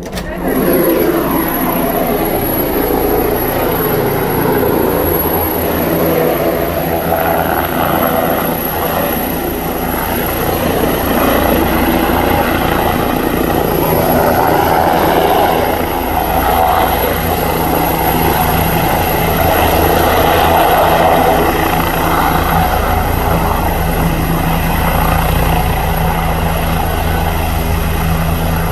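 Air ambulance helicopter landing close by: loud, steady rotor and turbine noise with a fast low thudding from the blades and a constant high whine.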